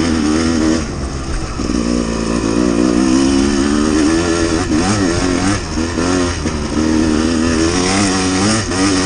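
Dirt bike engine running while being ridden on a trail. The engine note rises and falls with the throttle, briefly easing off about a second in and wavering up and down around the middle.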